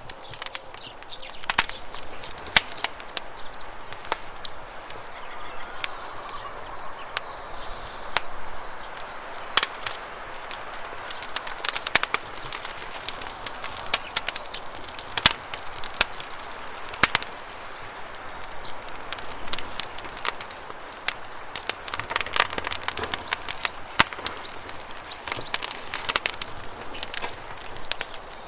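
Wood campfire crackling, with many sharp, irregular pops, over a steady rush of flowing river water. A faint high bird call comes in briefly near the middle.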